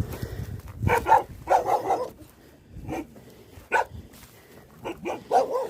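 Livestock guardian dogs barking in short bursts, several barks with pauses between them.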